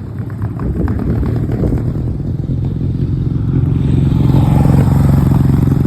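Motorcycle engine running close by. It grows louder over the first few seconds, then holds a steady drone.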